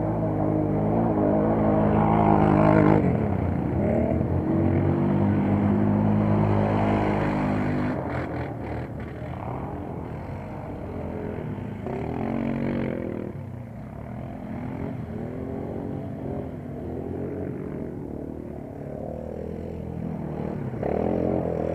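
Quad-bike engines revving. They are loud and steady for the first several seconds, then fainter, with the pitch rising and falling repeatedly, and louder again near the end.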